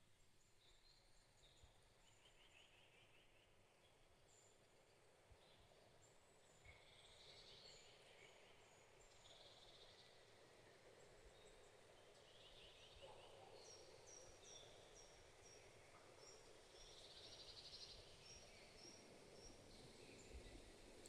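Faint birdsong from several birds: short high calls and quick trills scattered throughout, with a run of short repeated high notes a little after halfway, over a soft steady background hiss.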